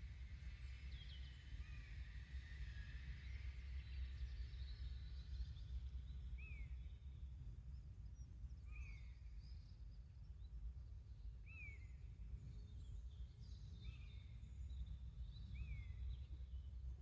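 Faint garden ambience of small wild birds chirping over a steady low rumble. Several birds are busy at first, then one bird repeats a short falling call about every two and a half seconds.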